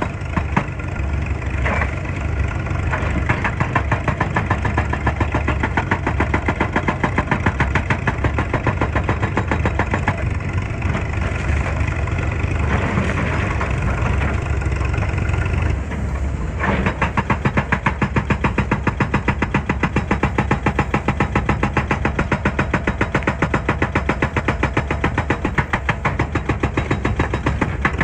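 Excavator's diesel engine running with a rapid, even pulsing; the engine note shifts between about ten and seventeen seconds in before settling back into the same steady beat.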